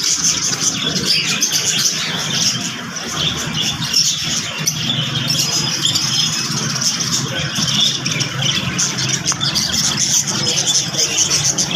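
A flock of small birds chirping and chattering together in a dense, continuous din, over a steady low hum.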